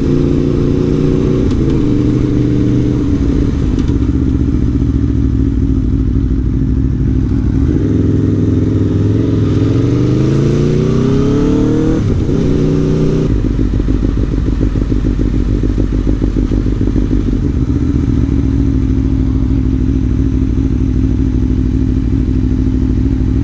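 Aprilia Tuono V4 1100 Factory's V4 engine running on the road at a steady note. About eight seconds in it rises in pitch as the bike accelerates, then drops with a gear change about twelve seconds in.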